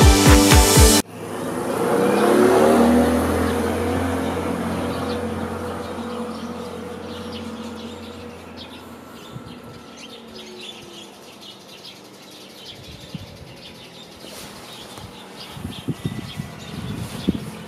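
Electronic music cuts off abruptly about a second in. A car then passes and fades away slowly, with birds chirping in the background and a few sharp clicks near the end.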